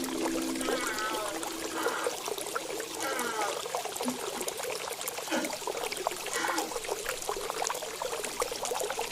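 Water trickling steadily, with several short bird chirps scattered over it. A held low Indian flute note dies away just after the start.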